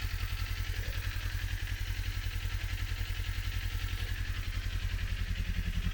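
Kawasaki Z400 parallel-twin motorcycle engine running steadily at low revs, with an even pulsing exhaust note.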